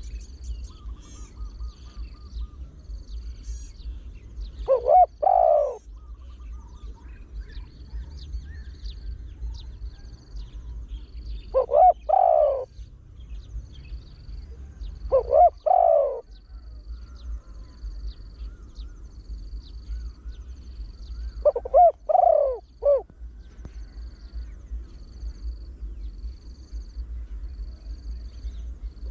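Trained spotted dove cooing: four separate multi-note coo phrases several seconds apart, the last one longer with extra notes. A faint high-pitched note repeats about once a second throughout, over a low hum.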